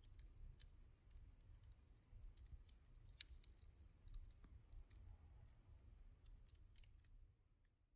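Near silence, with faint, scattered crackles from a wood campfire over a low rumble.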